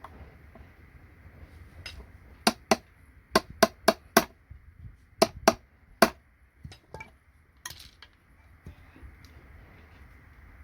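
Sharp metallic clicks and taps from a tool working at the sheet-metal cover of a circuit-board connector, about a dozen strikes in uneven clusters, the loudest in the middle.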